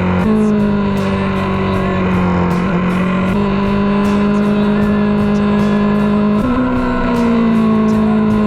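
Motorcycle engine running hard on track, its note sliding slowly down and jumping back up about three times, with background music mixed in.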